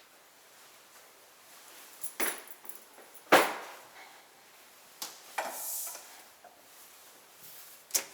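A few separate knocks and clatters of household fittings being handled: one about two seconds in, the loudest a second later, a cluster around five seconds and another near the end.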